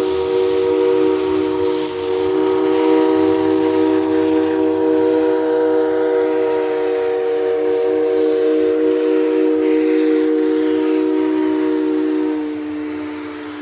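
Steam locomotive whistle blowing one long, steady blast of several notes sounding together, over a hiss of steam. Near the end the blast drops a little in pitch and gets quieter.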